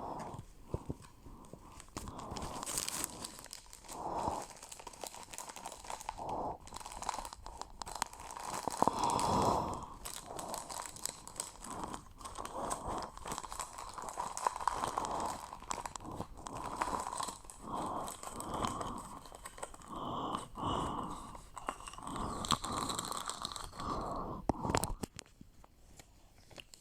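Rustling and crinkling of bags and packaging being handled and packed, in irregular swishes with small clicks and knocks.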